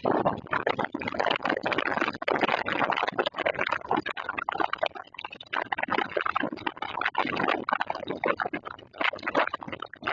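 Heavy rain of a summer storm pouring down, a dense splashing rush that swells and eases.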